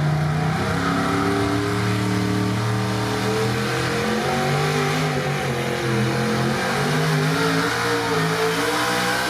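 Gasoline engine of a 1987 Chevy pro street pulling truck running hard at high revs under load, dragging the weight-transfer sled. Its pitch holds and then shifts up and down in steps.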